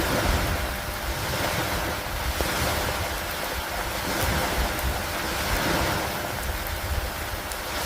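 Rainstorm over lake water: a steady rushing of rain, wind and water that swells and eases about every two seconds, with a low rumble underneath.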